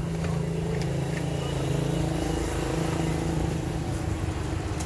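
Steady mechanical hum of a running machine, its pitch dropping slightly about two seconds in.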